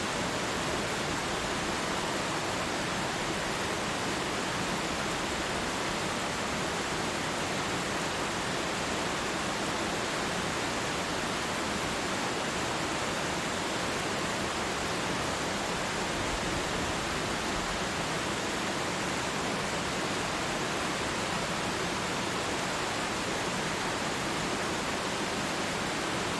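Water pouring over a twin waterfall: a steady, even rush that does not change.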